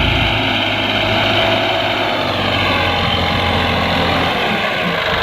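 A diesel engine running steadily.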